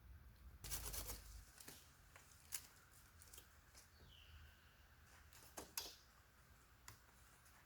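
Faint scattered clicks and rustles, a few short handling noises, with a brief falling chirp about four seconds in.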